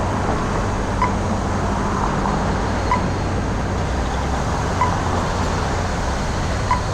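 City street traffic: a steady wash of road noise with a low engine hum from a nearby vehicle, and a short sharp tick repeating about every two seconds.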